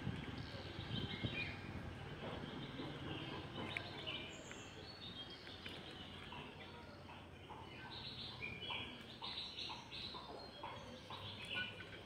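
Wild birds chirping and calling in short, repeated notes, more busily in the second half, over a low steady outdoor rumble.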